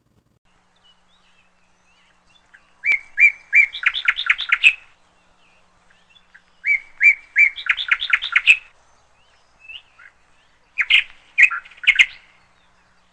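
A bird singing three phrases a few seconds apart, each a few evenly spaced notes that run into a quicker series of notes.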